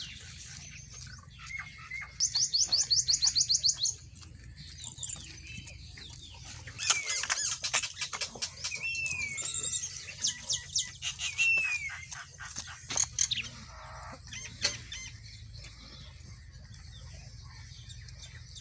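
Small birds chirping and calling: a fast run of repeated high notes about two seconds in, then a busy spell of chirps and short falling whistles from about seven to twelve seconds in, fading to a few calls after that.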